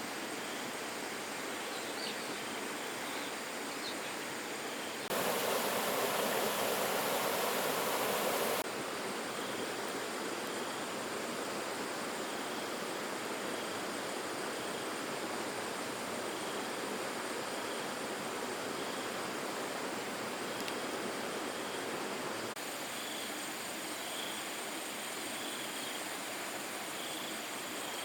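Steady outdoor ambience of running water, with insects chirping and buzzing. About five seconds in, a louder rushing noise comes in for about three and a half seconds and cuts off abruptly.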